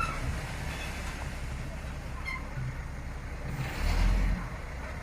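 Heavy vehicle's engine running with a steady low rumble, swelling louder for about half a second near four seconds in.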